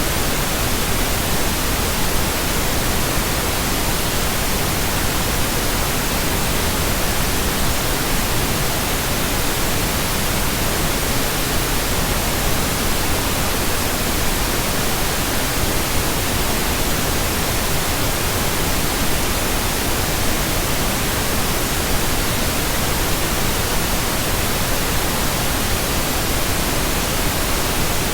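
Generated pink noise: a steady, even hiss spread across all pitches, unchanging throughout.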